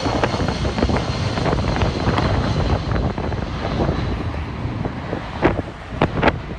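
Jet airliner engine noise mixed with wind buffeting the microphone, with a few sharp knocks near the end.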